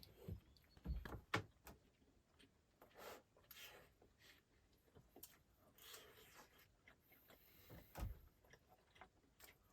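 Quiet handling noises: scattered soft knocks and rustles, with a few sharper knocks about a second in and another near eight seconds.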